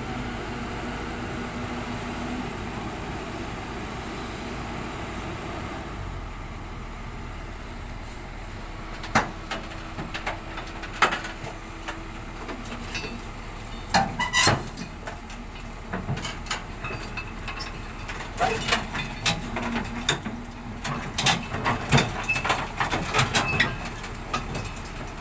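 Excavator running, with sharp clanks and knocks, a few at first and then many in quick succession near the end, typical of the machine working its way down off a truck.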